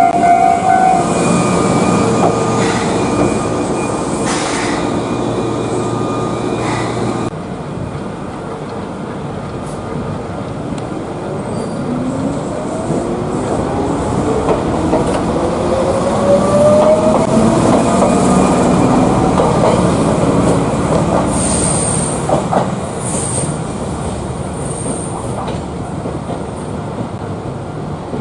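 Electric train running, with a motor whine that rises steadily in pitch as it picks up speed. Brief high wheel squeals come near the end.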